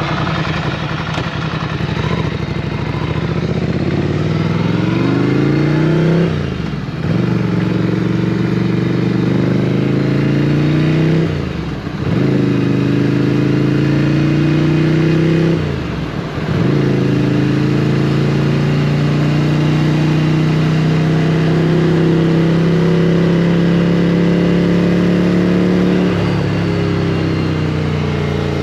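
Motorcycle engine accelerating hard through the gears: the engine note climbs, then drops at each of three upshifts, then holds steady at a constant pitch while cruising, easing slightly near the end.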